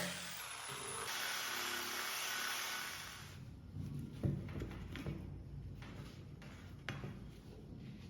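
Steady scraping or rubbing noise for about three seconds, then quieter handling with a few sharp knocks.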